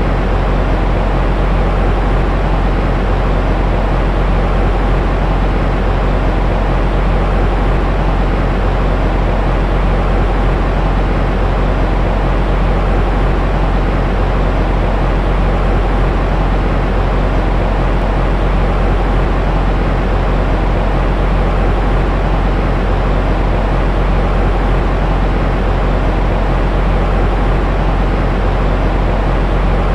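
Steady white noise for lulling a baby to sleep: an unbroken, unchanging rush, heavy and rumbling in the low end, with a faint steady hum in the middle.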